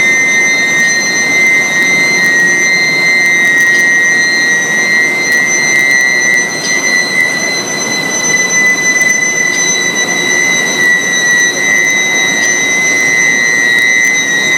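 IGBT induction heating furnace running: a steady high-pitched whine with fainter higher tones above it, over a constant rushing noise.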